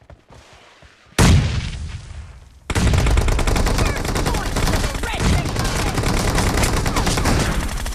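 Video game gunfire. About a second in, a sudden loud blast fades away. Then, a little under three seconds in, dense rapid automatic fire starts and carries on without a break.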